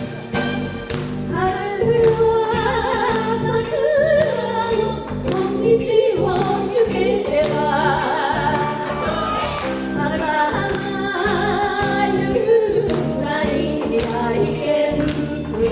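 Upbeat ondo-style enka music played live, a band with horns and Japanese taiko drums keeping a steady beat under a melody with vibrato.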